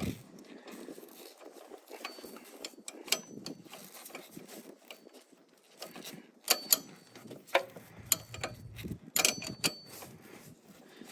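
Metal wrenches clinking and tapping as they are handled and tried on a bolt: scattered sharp clicks, several with a short metallic ring, the busiest run near the end.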